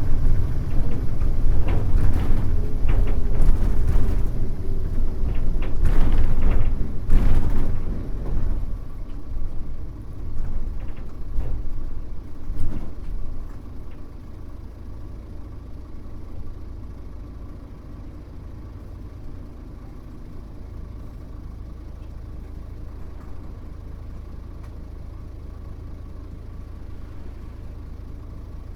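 Mitsubishi Fuso U-MK618J bus's diesel engine heard from inside the bus, loud for the first eight seconds with rattles and a slowly falling whine as it slows, then dropping to a steady, quieter idle after a few sharp knocks and hisses, as the bus comes to a stop.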